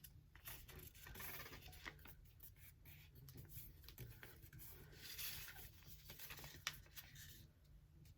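Faint rustling and scraping of a paper sheet being folded by hand and its crease pressed flat, with a few light taps.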